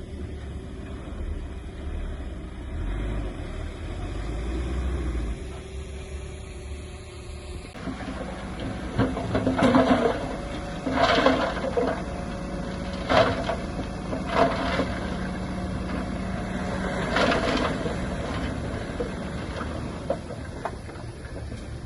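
Heavy earthmoving machinery running with a steady engine rumble. The sound changes abruptly about eight seconds in, and several loud sudden bursts follow over the next ten seconds.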